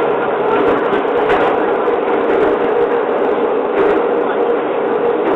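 Train running, heard from the front of the railcar: a steady drone with a hum, and a few short clicks along the way.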